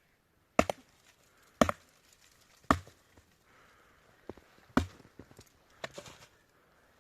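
Wood being chopped: four hard, sharp chopping blows about a second apart, then a few lighter knocks.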